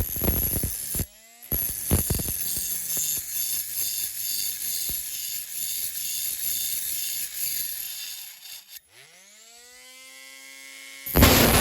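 Small electric rotary tool cutting and grinding the metal of a diecast model car body, with a gritty rasping sound while it bites. Near the end it is lifted free and its motor whine rises to full speed before it cuts in again.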